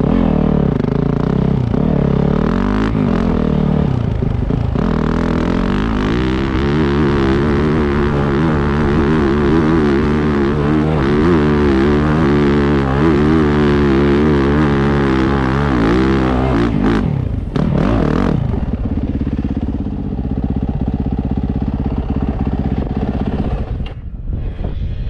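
Off-road dirt bike engine working hard on a steep climb, revving up and down repeatedly as the throttle is worked. About 17 seconds in the revs fall away and the engine settles into a lower, steadier run.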